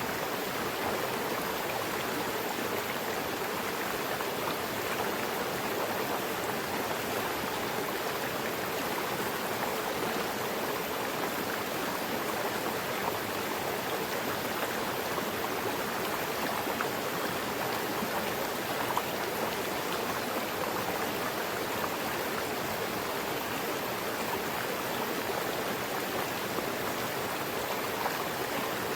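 Mountain river rushing and splashing over rocks, a steady, even flow.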